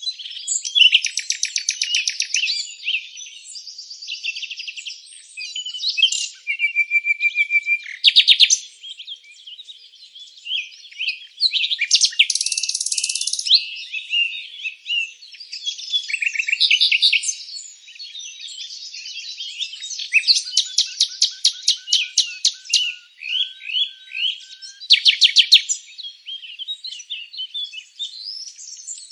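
Several songbirds chirping and singing at once, with overlapping fast trills and rapid runs of high notes, some short buzzy phrases and a few lower whistled notes.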